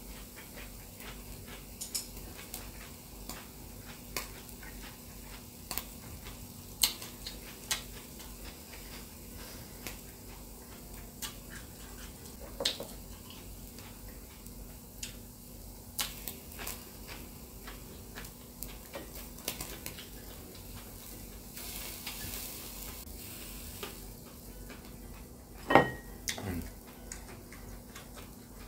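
Eating sounds close to the microphone: scattered sharp clicks and taps of chopsticks and chewing, over faint sizzling of beef on a tabletop charcoal grill. There is a short burst of hissing late on, and one louder knock near the end.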